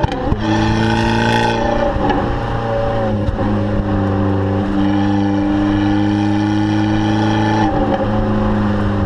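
Abarth 500 with its turbocharged 1.4-litre four-cylinder engine, its exhaust running at steady revs. After a brief dip at the start the revs climb slightly, then hold even, and change again near the end.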